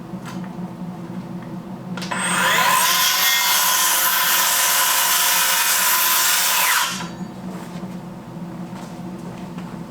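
Electric power saw spinning up about two seconds in and cutting a wooden board for about five seconds, then winding down.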